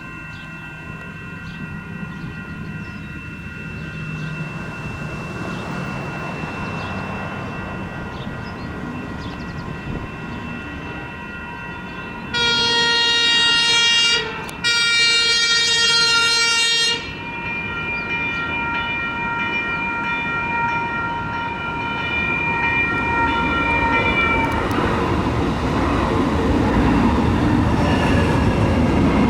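Light rail train horn sounding two long blasts about twelve seconds in, over a steady high ringing tone. Near the end the rumble of the train's wheels on the rails grows louder as it approaches.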